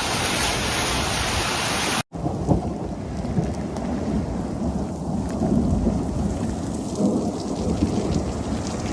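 Heavy downpour hissing in a thunderstorm. After an abrupt cut about two seconds in, a low rumble of thunder continues under the rain, with scattered sharp taps of rain or hail striking.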